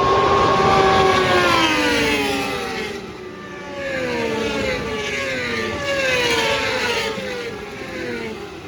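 Racing superbikes passing at speed one after another, each engine note dropping in pitch as it goes by. The first pass is the loudest, and a string of further bikes follows.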